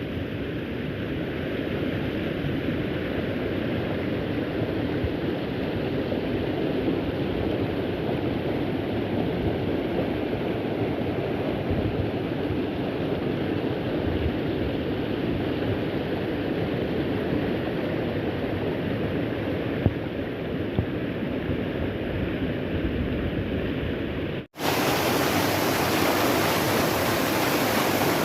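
Steady rush of a waterfall, an even hiss with no rhythm. Near the end it cuts off abruptly and resumes brighter and hissier, as if heard from closer to the falling water.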